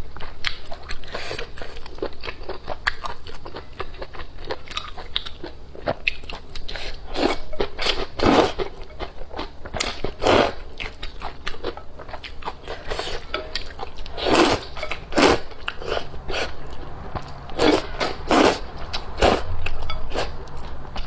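Close-miked eating of noodles: continual chewing and biting, with louder bursts every second or so near the middle and end.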